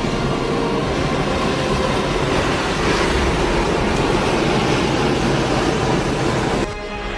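Steady, loud rushing roar of storm wind, cut off abruptly near the end by a switch to a different sound with a low steady hum.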